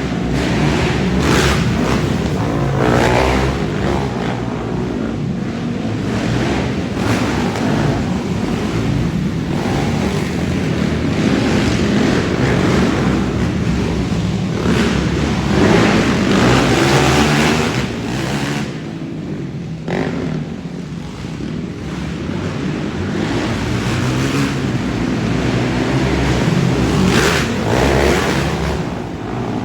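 Racing ATV quads' engines running hard, revving up and backing off again and again as the pack laps the arenacross track. The level dips for a few seconds about two-thirds of the way through, then builds again.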